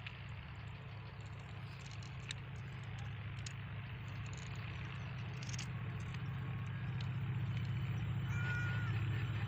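Low, steady rumble of an approaching train's diesel locomotive, growing steadily louder, with scattered faint chirps and ticks above it.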